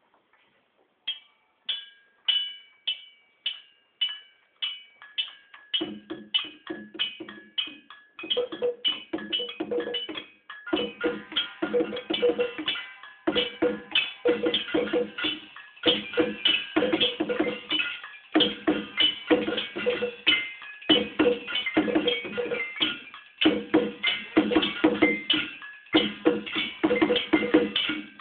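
Rhythmic percussion played on found objects by a group of children: a single steady beat of sharp strikes, about two a second, with more parts joining in and building to a dense, layered groove.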